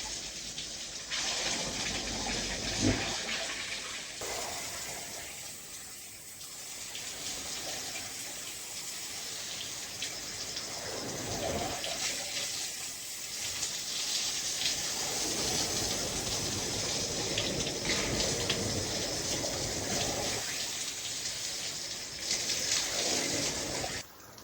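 Water splashing and running, swelling and easing over the stretch.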